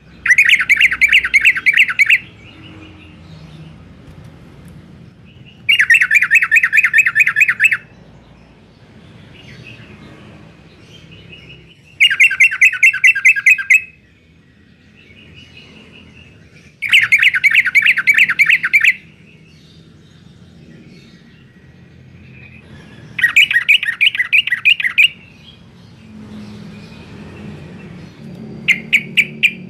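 Yellow-vented bulbul (trucuk) singing: loud two-second bursts of fast repeated notes, five of them about every five to six seconds and a sixth starting near the end, with soft chirps in between.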